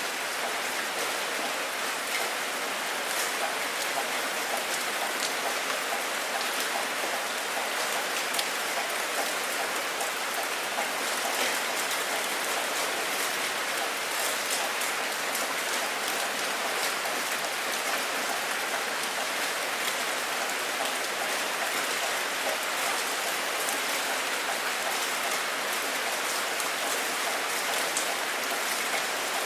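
Steady rain falling, with many small drop ticks pattering on a surface.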